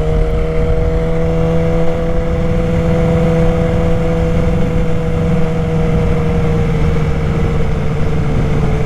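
Street motorcycle's engine running at a steady pitch, easing slightly lower near the end.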